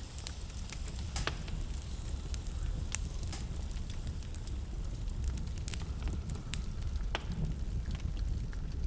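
Wood fire in a fireplace crackling: a steady low rumble of flames with irregular sharp pops and snaps, a few louder ones standing out.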